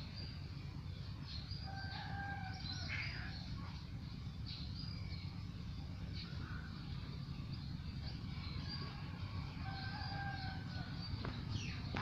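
Birds calling outdoors: scattered short, high chirps, and twice a longer, lower call with a steady pitch, about 2 seconds in and again about 10 seconds in. A steady low rumble lies underneath, and there are a few sharp clicks near the end.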